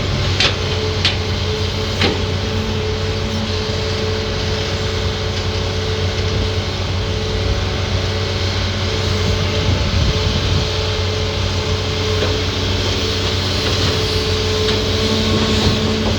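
Hitachi ZAXIS200 excavator's diesel engine running steadily with a low hum and hydraulic whine. Three sharp knocks, metal on rock, come in the first two seconds.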